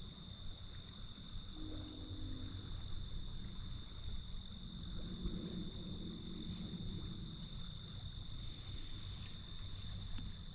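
Steady insect chorus, a continuous high-pitched trilling, over a low rumble of outdoor background noise.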